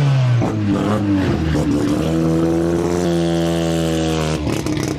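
Car engine revving: a rev falls away at the start, then the engine is held at a steady high rev for about three seconds and cut off near the end, with a few crackling pops from the exhaust as it drops.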